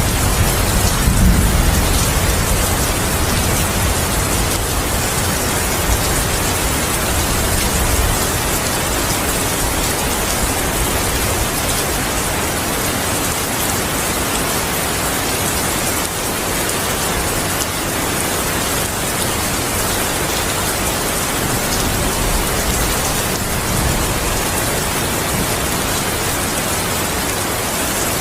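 Steady heavy rain falling, with a low thunder rumble dying away in the first couple of seconds and a fainter low rumble a little before the end.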